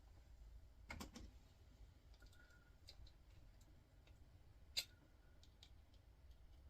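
Faint clicks and ticks of hand work pulling copper winding wire from a small motor, with one sharper click a little before five seconds in.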